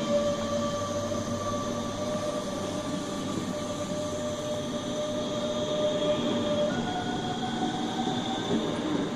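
DB Class 425 electric multiple unit pulling away, its traction converters whining in a steady tone that jumps up in pitch about two-thirds of the way through, over the rumble of the train running.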